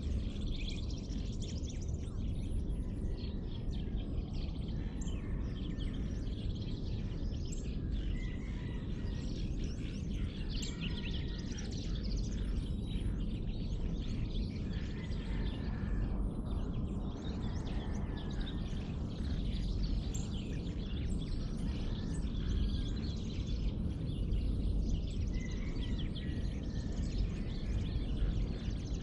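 Dawn chorus of many birds chirping and calling all at once, with some clear whistled notes, over a steady low rumble.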